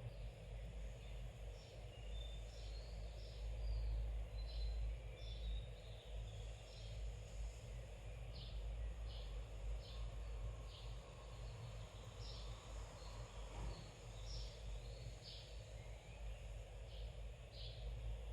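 Small birds chirping, short high calls one or two a second, over a low steady rumble.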